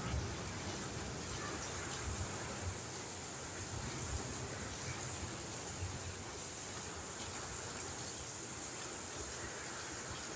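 Steady heavy rain falling, an even hiss with no change.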